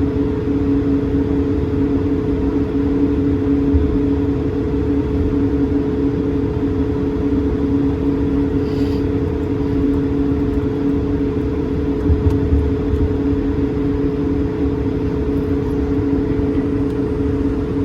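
Cabin noise inside an Airbus A220-300: its Pratt & Whitney PW1500G geared turbofan engines run steadily, giving a low rumble under two steady humming tones. A brief low bump comes about twelve seconds in.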